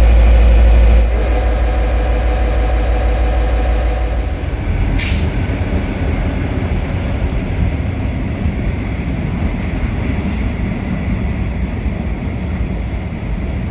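V/Line N class diesel-electric locomotive running at a standstill, a steady low rumble, with a short sharp hiss of released air about five seconds in.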